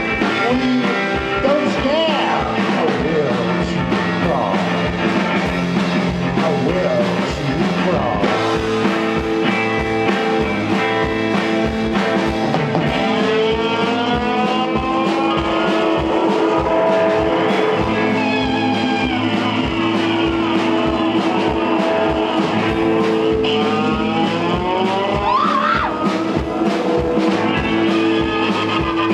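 Rock band playing live: drums keeping a steady beat under electric guitar and bass, with long guitar notes that bend and glide in pitch.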